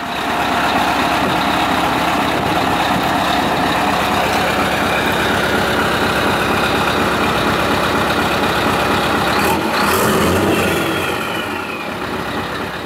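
Scania R620 V8 diesel truck engine running loudly through straight-piped exhaust stacks, steady for most of the time, with a brief change in its note about ten seconds in.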